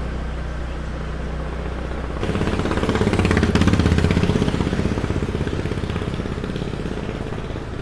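Small motor scooter riding at low speed, its engine humming steadily. About two seconds in, a louder, rapidly pulsing engine sound swells up, peaks, and fades away over the next few seconds.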